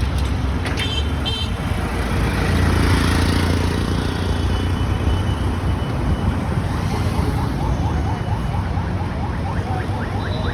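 Busy city street traffic: a steady mix of engines and road noise, with a low engine rumble swelling for a couple of seconds near the start. About a second in there is a brief high ringing tone, and in the second half a quick run of short rising chirps.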